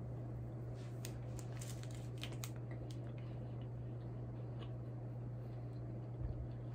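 Quiet chewing of a Clif Bar, with faint crisp clicks from biting and chewing in the first couple of seconds, over a steady low electrical hum.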